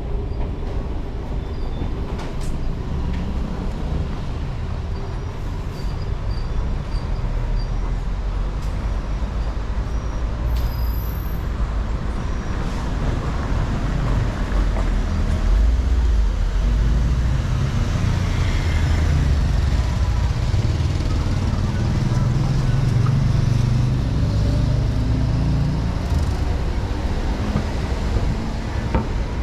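Street traffic: vehicle engines running close by, with a heavier engine rumble growing louder about halfway through.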